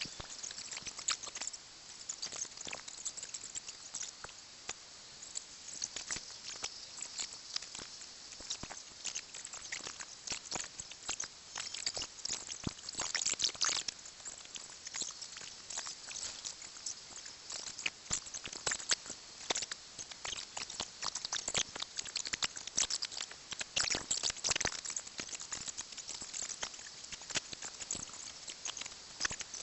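Dry leaves and plant stems rustling and crackling in an irregular patter as overgrown garden growth is pulled and cleared.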